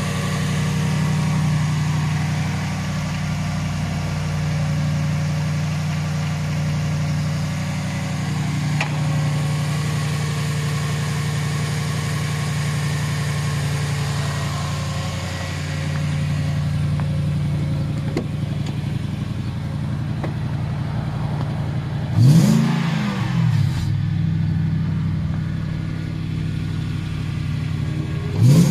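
Lexus 3UZ 4.3-litre V8 idling steadily in a GWM Steed 5 conversion, blipped once about three-quarters of the way through so the revs rise and fall quickly, with another blip beginning at the very end.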